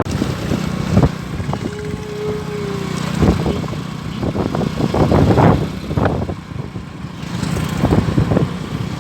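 A motor engine runs with a steady low hum, under a series of irregular knocks and clatter.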